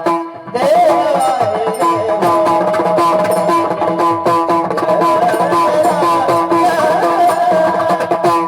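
Marathi kirtan music: steady held melody tones with a wavering sung-style line over drum and hand-percussion beats, after a brief drop in loudness about half a second in.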